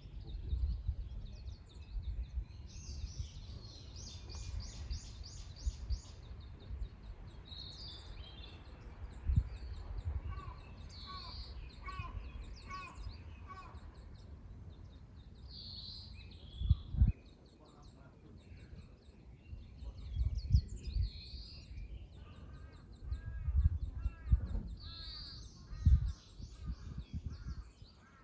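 Several wild birds singing and calling outdoors, with repeated high trilled phrases and runs of quick repeated notes. Irregular low rumbles and a few dull thumps sound underneath, the loudest about 17 and 26 seconds in.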